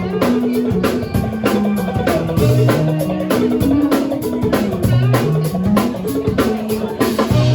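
Live rock band playing an instrumental passage: drum kit keeping a steady beat under a moving electric bass line and guitar.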